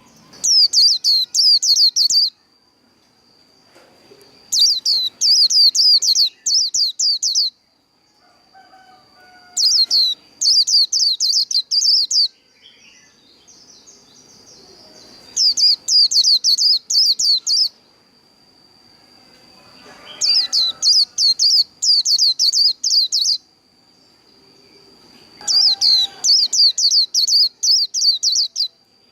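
Vành khuyên (white-eye) singing its fast, twittering 'líu' song in six bursts of two to three seconds each, with pauses of a couple of seconds between them. A faint steady high tone runs underneath.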